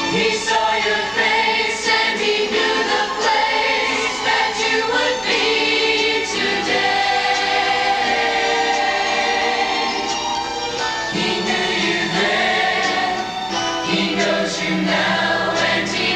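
Choir singing a Christian song in held chords, with many voices sustaining long notes.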